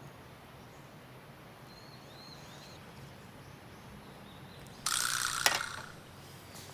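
A short rasping mechanical sound with a sharp click in it, lasting under a second, about five seconds in. Earlier, a few faint high chirps sound over a low steady background.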